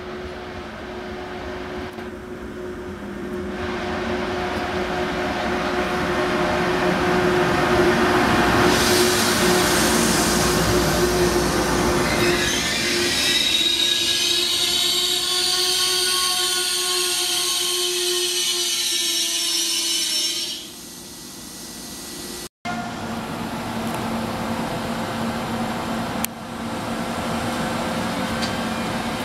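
Electric-hauled passenger train rolling into the station: a steady hum under rolling noise that builds to a loud rush, with high squealing from the wheels from about 13 to 20 seconds before it eases off. After a sudden cut about 22 seconds in, an FS E.402B electric locomotive runs past slowly with a steady hum.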